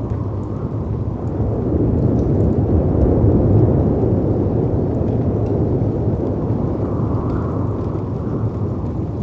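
Storm ambience: a deep, steady rush of winter wind and sea surf that swells louder a couple of seconds in, with faint, sparse crackles from a fireplace.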